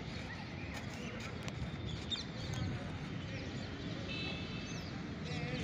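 Birds chirping a few times, about two seconds in, around four seconds and near the end, over a steady low rumble.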